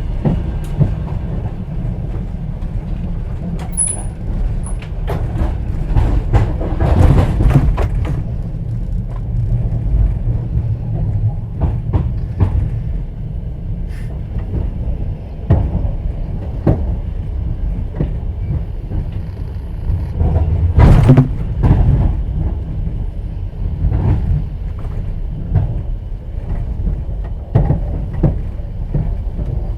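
Interior of a moving Russian platskart sleeper carriage: the train's steady low rumble, with scattered knocks and rattles from the carriage and wheels. The noise swells around seven seconds in, and a sharp loud clatter comes about twenty-one seconds in.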